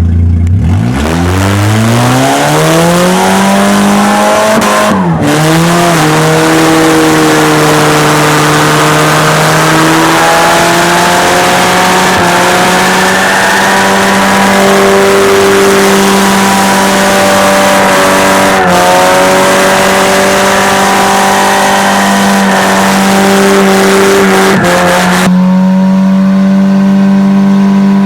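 A car's 2.2-litre four-cylinder engine revved hard and held at high revs during a burnout, with the hiss of spinning tyres. The revs climb steeply in the first two seconds and dip briefly twice. Near the end the tyre hiss drops away while the engine keeps running high.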